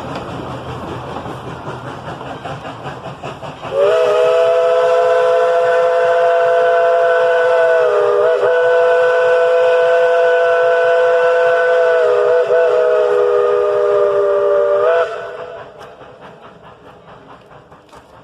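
Steam locomotive's chime whistle blowing one long blast of about eleven seconds, several notes sounding together as a chord that wavers briefly twice before cutting off. Train running noise is heard before and after it.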